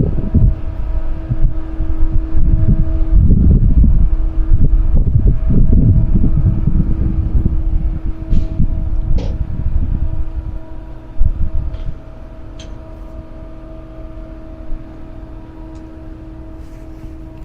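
Wind buffeting the microphone in irregular gusts of low rumble, easing off about twelve seconds in, over a steady hum.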